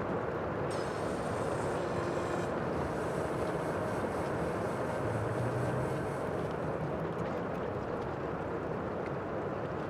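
Steady sea ambience: an even rush of water and wind noise with a faint low hum underneath.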